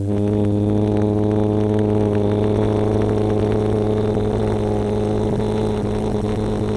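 A man imitating a Toyota Supra's engine with his voice, holding one steady, low buzzing engine note with a slight rattle.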